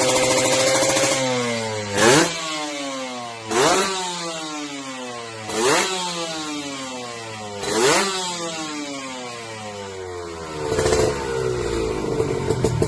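Kawasaki Ninja R/RR two-stroke single revved through an aftermarket stainless 'Cobra' exhaust: held revs drop away about a second in, then four quick throttle blips about two seconds apart, each falling back slowly, before the revs are raised and held near the end.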